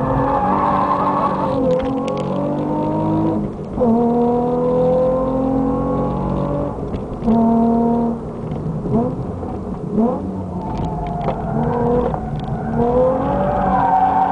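Nissan 350Z's V6, fitted with an Amuse full exhaust, pulling hard on track and heard from inside the cabin. Its pitch climbs through the revs and drops sharply at gear changes about 4 seconds in and again near 8 seconds, then rises and falls quickly several times. Light knocks sound throughout.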